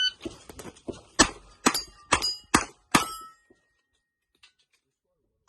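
A shot-timer beep starts the string. A revolver then fires a quick run of five shots in about two seconds, each hit ringing on a steel plate. After a pause, a final shot rings the stop plate at the very end, ending a run of about 5.7 seconds.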